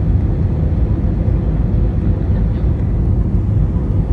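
Steady airliner cabin noise during the descent: a constant low rumble of the jet engines and airflow, with a faint steady hum above it.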